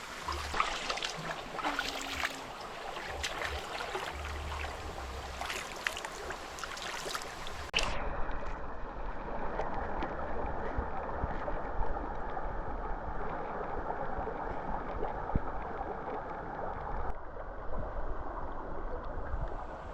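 Stream water running in a steady rush, with many small clicks over a brighter hiss at first. About eight seconds in, the sound cuts abruptly to a duller, steadier rush of flowing water.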